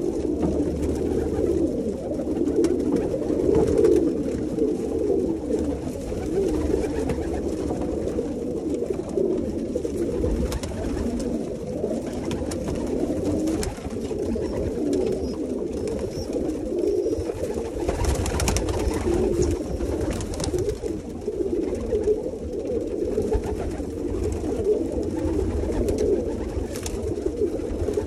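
A flock of domestic pigeons cooing continuously, many calls overlapping, with scattered short taps and clicks among them.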